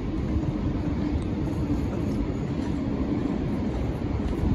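MTR Tsuen Wan line M-Train electric multiple unit rolling along the depot tracks, a steady low rumble of wheels on rails with a faint steady hum.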